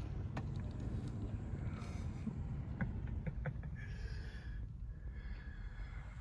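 Low, steady rumble of a car on the move, heard from inside the cabin, with a few faint clicks.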